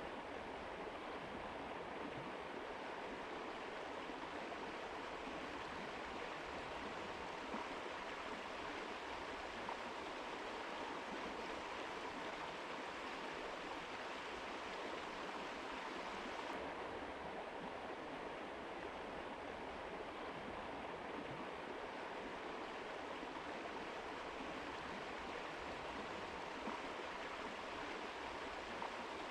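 Mountain river water rushing, a steady even noise. About halfway through, the higher hiss becomes slightly duller.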